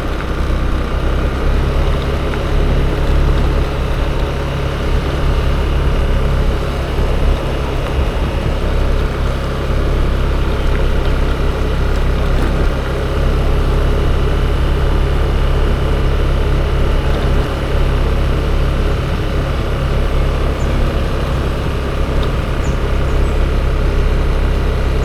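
Riding a Yamaha Aerox 155 scooter through city traffic: steady low wind rumble on the microphone over the scooter's engine and surrounding road traffic.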